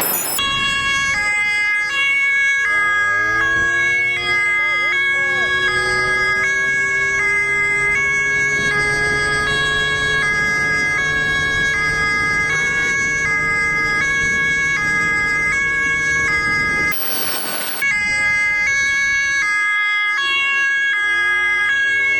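Two-tone emergency-vehicle siren, switching back and forth between a high and a low note about every half second. Under it a vehicle engine rises in pitch a few seconds in, then holds steady. A brief burst of rushing noise near the end interrupts the siren.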